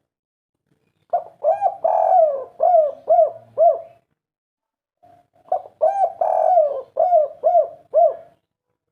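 Spotted dove (tekukur) singing its 'kuk 3' cooing song, twice. Each phrase is a run of short arching coos with a longer drawn note in the middle.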